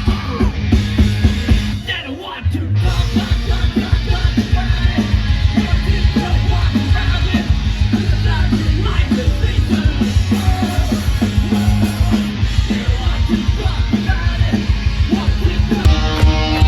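Live heavy rock band playing loud and fast, with pounding drums and yelled vocals, and a brief break about two seconds in.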